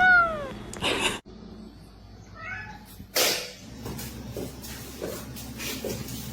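A cat meows once, a short loud call that rises then falls in pitch. A fainter short cat call follows about two and a half seconds in, then a sudden brief rustling noise a little after three seconds.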